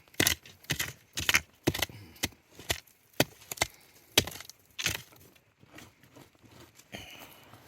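A hand tool striking over and over in quick, sharp blows, about two a second, as in chopping or digging; the blows stop about five seconds in.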